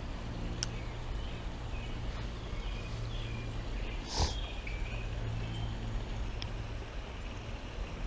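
Outdoor creek ambience: a steady low hum with scattered short bird chirps. A brief rushing swish about four seconds in is the loudest sound, with a couple of faint clicks.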